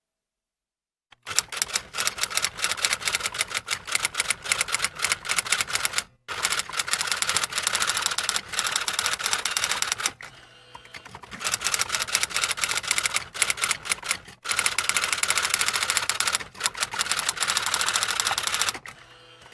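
Typewriter keys struck rapidly in long runs of sharp clacks, broken by short pauses. The typing starts about a second in, after dead silence.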